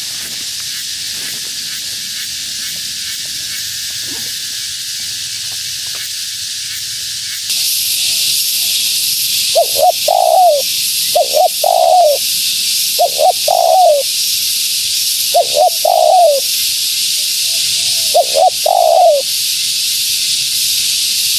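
Female spotted dove (tekukur) cooing: five short call phrases in the second half, each a quick note or two followed by a longer coo, over a steady high hiss that gets louder about seven seconds in.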